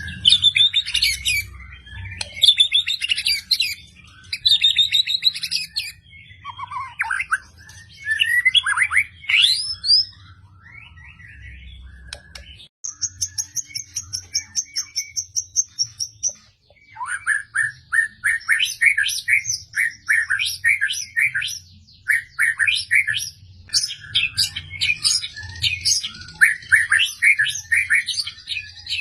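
White-rumped shama (murai batu) singing loudly in varied phrases. About halfway through it gives a rapid, even string of short high notes, then runs of repeated sharp notes, the 'tembakan' phrases that bird keepers prize.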